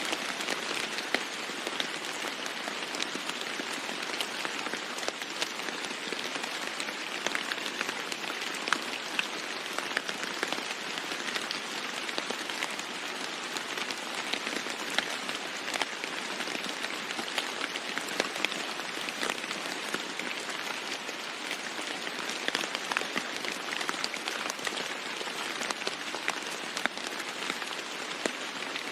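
Steady rain falling on a roof, a continuous patter with many sharp individual drop hits.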